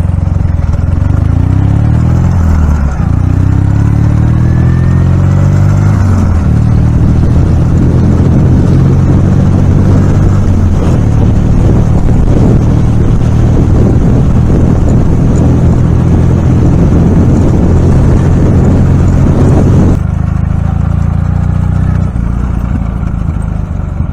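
Ural motorcycle's flat-twin engine accelerating hard through the gears. The revs rise, drop at a gear change about three seconds in, and climb again, then it runs steadily at speed. Near the end the throttle eases off and the engine note falls.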